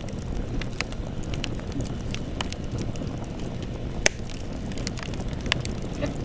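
Wood campfire burning: a steady low rush of flame with frequent sharp crackles and snaps, and one loud pop about four seconds in.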